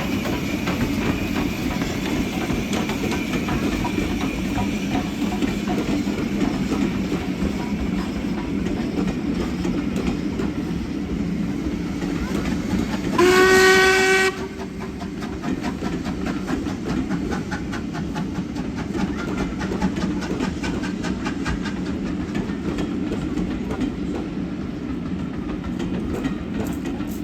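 A train running on the rails with a steady rumble and wheel clatter. About halfway through comes one short single-note whistle blast lasting about a second.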